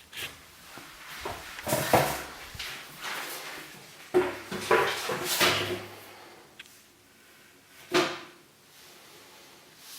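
A series of knocks and scrapes, grouped around two seconds in, between about four and six seconds, and once more about eight seconds in.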